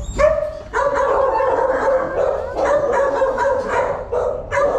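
Puppies whining and yipping in high-pitched, overlapping cries, nearly continuous, with a short gap near the end.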